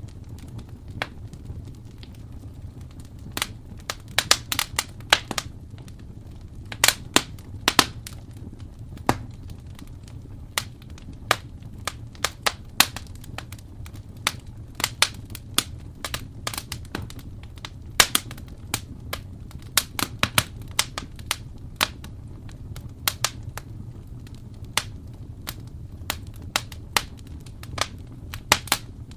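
Wood fire in a fireplace crackling: irregular sharp pops and snaps, several a second at times, over a low steady rumble.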